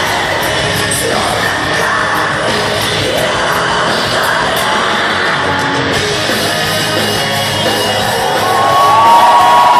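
Power metal band playing live, with a dense wall of guitars, bass and drums. A long held high note rises out of the mix near the end.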